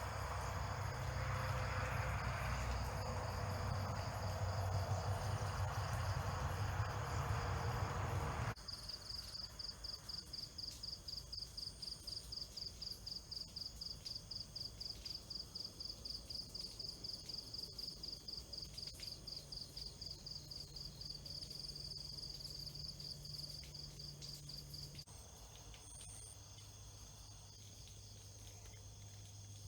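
Insects calling: a rapid, pulsed high chirping over a low steady hum. For the first eight seconds or so a broad rushing noise covers it and cuts off suddenly; the chirping then stands out clearly and stops a few seconds before the end.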